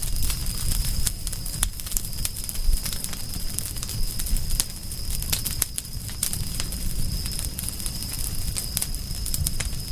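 Wood fire crackling: frequent sharp pops and snaps over a low rumble of flames, with a steady high-pitched tone underneath.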